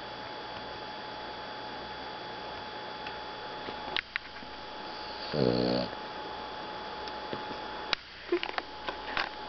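Boston terrier snoring in its sleep: one long, pitched snore about halfway through, with a few faint clicks near the end.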